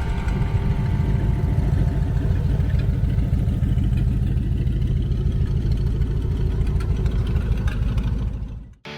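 Car engine idling, a loud low pulsing sound, fading out near the end.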